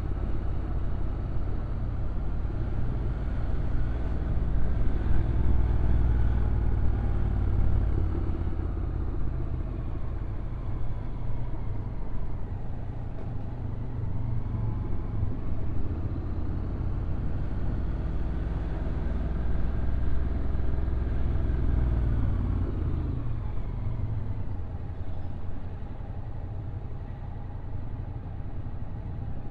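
Honda NC750X DCT's parallel-twin engine running under a steady low wind rumble on the microphone during a downhill ride. The engine note rises and falls twice, then drops back to a quieter, lower sound for the last few seconds.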